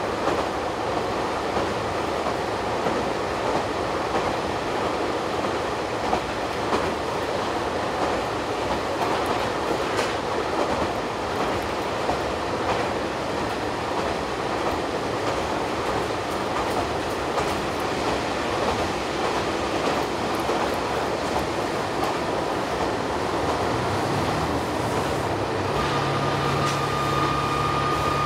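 Diesel railcar running along the line, heard from inside the passenger cabin: a steady rumble of wheels on rails with scattered clicks over the rail joints. Near the end a steady low hum and a higher whine join in.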